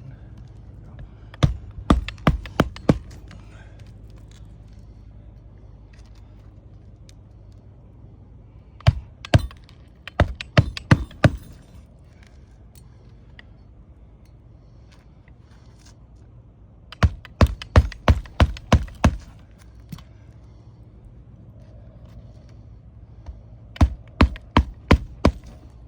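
Hammer driving roofing nails into asphalt shingles to nail them flush: four quick runs of about seven to ten blows each, several seconds apart.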